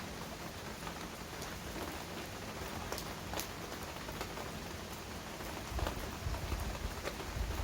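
Heavy rain falling steadily, with individual drops ticking sharply here and there. About six seconds in, a low rumble rises beneath the rain.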